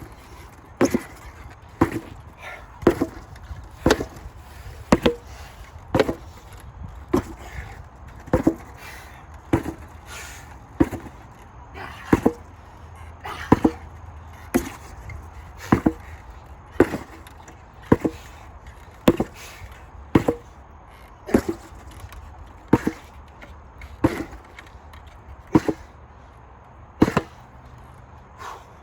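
An 8 lb sledgehammer striking a target over and over, about one heavy blow a second, roughly two dozen in all. The blows come a little further apart near the end.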